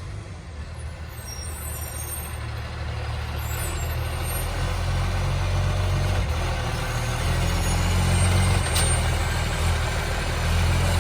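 Garbage truck's diesel engine running with a loud, rough exhaust from a massive exhaust leak, growing steadily louder as the truck comes closer. A short sharp click about nine seconds in.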